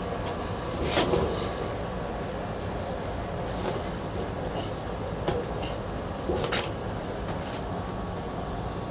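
Scattered clicks and clinks of small metal ceiling-fan parts and screws being handled during disassembly, five or six short knocks spread over a steady low background rumble.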